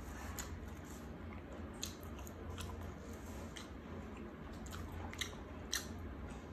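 Close-mic'd chewing with the mouth closed: a string of small wet clicks and crunches at an uneven pace, the sharpest about five and six seconds in, over a steady low hum.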